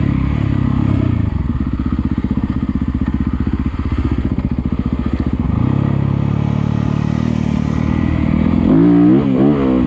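Yamaha YZ250FX's single-cylinder four-stroke engine running under a rider on a dirt trail. It chugs at low revs through the middle, then picks up, with quick rises and falls in engine pitch near the end.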